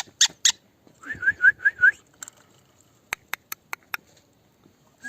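A pet parrot calling: two short harsh squawks at the start, then a run of five quick rising chirps about a second in, then a string of five sharp clicks past the three-second mark.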